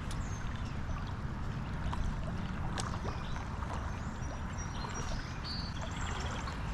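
Steady rush of creek current, heaviest in the low end, with a couple of sharp clicks and a few faint, short high chirps over it.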